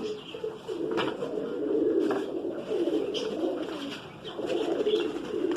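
Domestic pigeons cooing, several overlapping low, wavering coos running steadily, with a couple of faint clicks about one and two seconds in.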